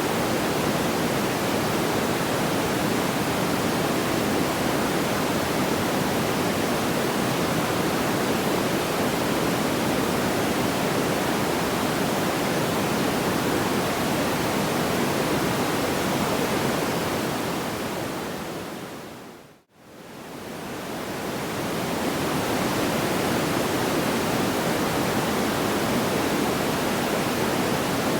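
Steady rushing noise like pink noise, even and without crackles or pops. It fades smoothly out to near silence and back in about two-thirds of the way through, where the loop restarts.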